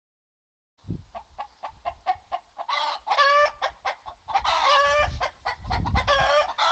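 Chicken clucking in a quick run of short notes, about four or five a second, then breaking into several longer, loud drawn-out calls.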